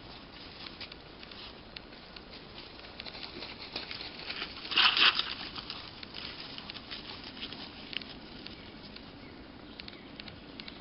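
Scattered light crackles and patter on the forest floor, with one louder rustle about five seconds in.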